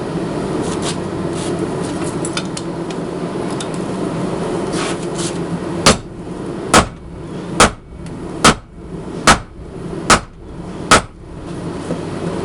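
Steady roar of a running forge, then about halfway through seven heavy blows of a 10-pound sledgehammer on a hold-down tool, a little under a second apart, each with a short ring, drawing out hot 52100 ball-bearing steel.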